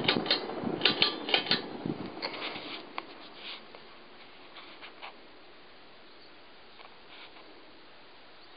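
Moss WF Series ceiling fan running with a rushing hum and a run of sharp clicks and rattles. The sound dies away over the first few seconds to a faint steady background, typical of the fan spinning down.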